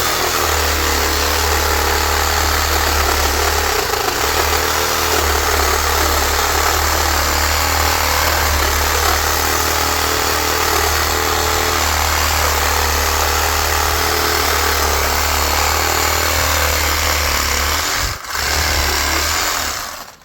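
Power tool cutting into the metal housing of a large electric motor being scrapped for copper, running loud and continuously. It stops for a moment about two seconds before the end, runs on again, then stops.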